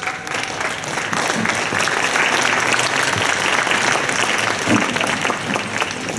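Spectators clapping, a dense applause that breaks out suddenly, builds over the first couple of seconds and eases a little near the end.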